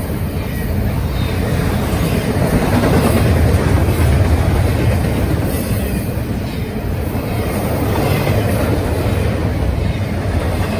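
Norfolk Southern freight train rolling past: a steady, loud rumble of wheels on the rails with a clickety-clack.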